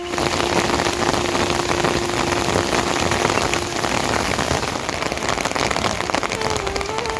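Heavy rain falling, a dense steady patter of drops hitting a surface, starting abruptly. A faint steady tone runs underneath and shifts pitch a few times near the end.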